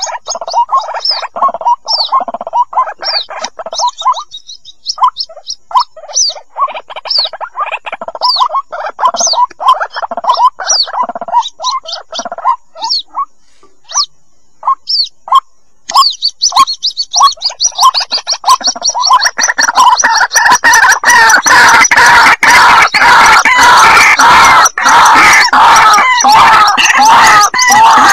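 White-breasted waterhen chicks calling: a string of short, sharp peeping calls with small gaps between them. About two-thirds of the way in, this thickens into a loud, continuous stream of overlapping calls.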